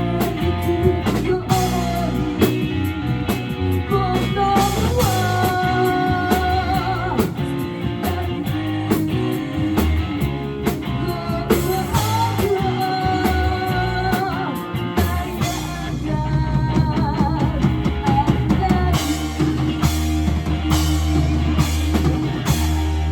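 A rock band playing live, with electric guitar, drum kit and a lead singer, the song running on to a held chord near the end.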